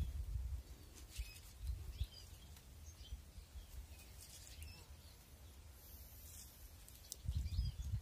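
Small birds chirping faintly, a few short calls scattered over several seconds, over a low rumble that grows louder near the end.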